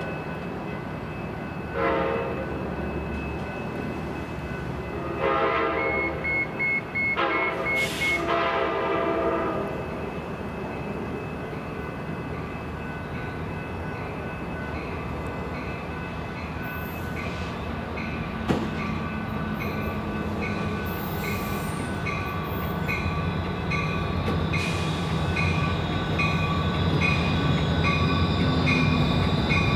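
Sounder commuter train sounding its horn four times in the first ten seconds, the later blasts longer, as it approaches the station. A bell then dings steadily about once a second while the train's rumble grows louder as it draws near.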